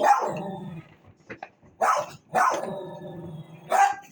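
A dog barking four times, each bark trailing off.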